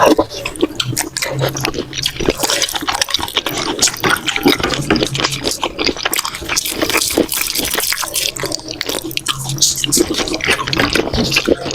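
Close-miked wet eating sounds from a mouthful of saucy Samyang noodles and tteokbokki rice cakes: continuous slurping, smacking and chewing, a dense run of irregular wet clicks.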